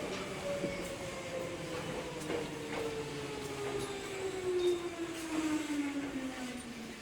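Hankyu 3300 series electric train running, its motor whine falling steadily in pitch as the train slows, over a low rumble with faint clicks.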